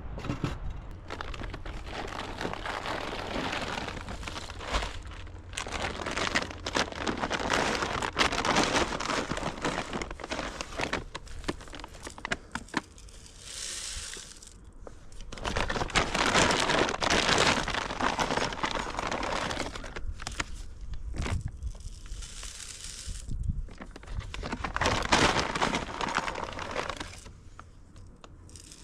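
Crinkling and rustling, with many small crackles, in several stretches of a few seconds each, with short quieter gaps between.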